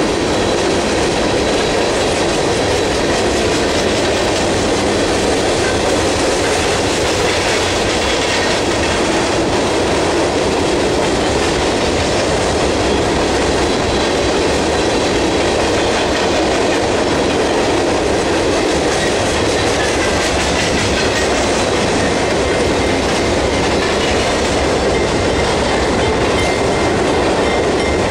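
Empty steel coal hopper cars of a CSX freight train rolling past at speed: a steady, loud noise of wheels on rail.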